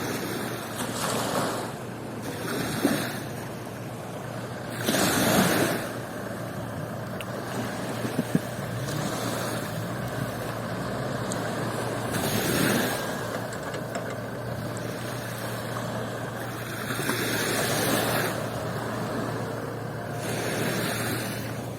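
Sea waves breaking and washing up the beach, swelling in surges every few seconds over a constant rush of surf.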